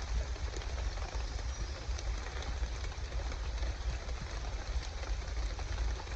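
Heavy rain falling steadily: an even hiss with a deep rumble beneath it and scattered taps of drops.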